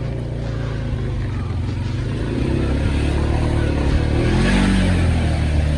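ATV engine running under load while its tyres spin in deep mud, getting louder about two and a half seconds in. A rush of splashing water is heard about four and a half seconds in.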